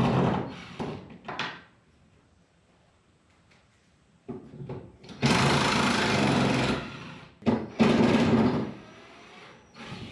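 Cordless drill running in short bursts, backing screws out of wall shelf brackets. One run ends just after the start, and two more of about a second and a half each follow, about five and seven and a half seconds in, with small clicks between.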